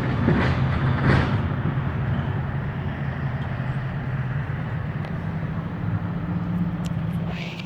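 A heavy engine running steadily with a low, even hum. There are two brief louder rushes of noise in the first second or so.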